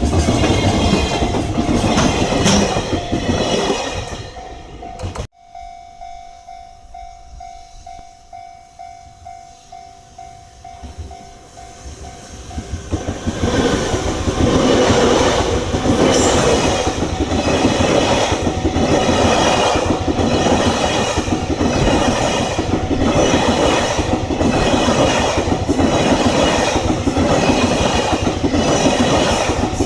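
Freight train wagons rolling past with a clickety-clack of wheels over rail joints. The sound breaks off sharply about five seconds in and stays quieter with a faint steady tone. From about thirteen seconds a train builds back up into loud, regularly spaced clatter, roughly one to two knocks a second.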